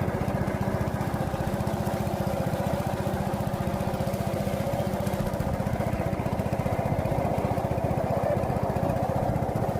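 Small engine running steadily at an even speed, with a fast, regular chugging that does not change.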